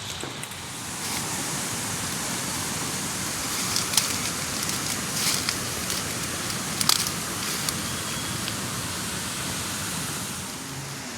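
Steady rain falling, an even rushing hiss with a few sharp ticks about four, five and seven seconds in.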